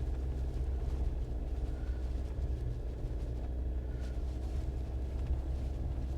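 Jeep engine and tyre noise heard from inside the cabin while driving: a steady low drone.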